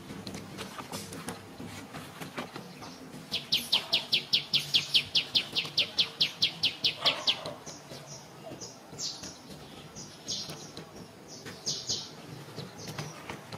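A bird calling a fast, even series of short, high, down-sliding notes, about five a second for some four seconds, followed by a few scattered chirps.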